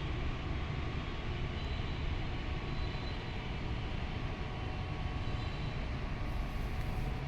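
Truck engine running steadily: a low, even rumble.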